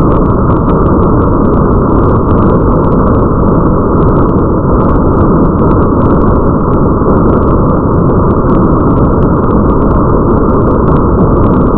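Rain ambience: a steady, dense wash of noise that is heaviest in the low end, with light, irregular ticking of drops above it.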